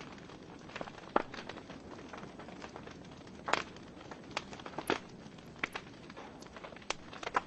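Wood fire burning in a fireplace: irregular sharp crackles and pops from the burning logs over a soft steady hiss, with louder pops about a second in and about three and a half seconds in.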